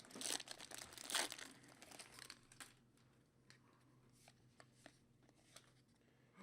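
Plastic card wrappers and packaging crinkling and tearing as trading-card packs are opened and handled, dense for the first couple of seconds, then fading to a few faint light clicks.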